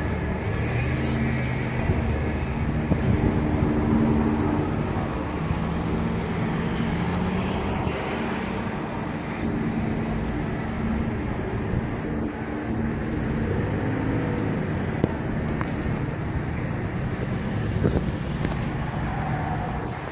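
Steady street noise with road traffic.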